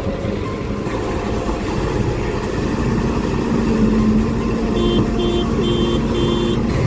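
Heavy machine's engine running steadily under load, with a steady hum rising in about three seconds in. Near the end comes a warning beeper sounding four short, evenly spaced beeps.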